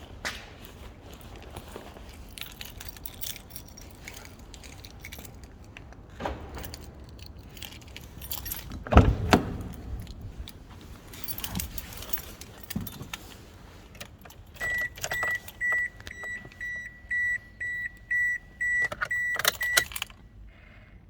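Keys jangling and handling noises in a car, with a heavy thud about nine seconds in. Near the end, the Toyota Corolla Fielder's electronic warning chime beeps about twice a second for five seconds, ahead of the engine start.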